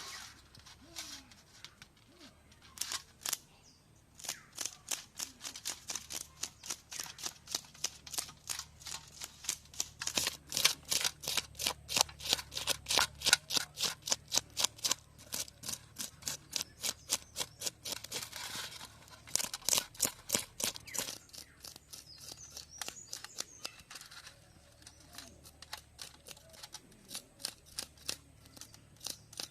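Scaling a black fish (kalbasu): a blade scraping off the scales in quick repeated strokes, about three a second, with a few short pauses.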